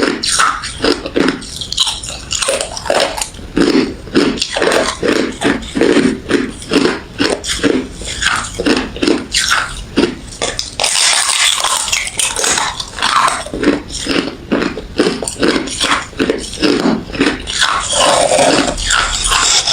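A person chewing refrozen crushed ice and frosty freezer ice, in a steady rhythm of crunching bites about two to three a second, with a denser run of crunching about eleven seconds in.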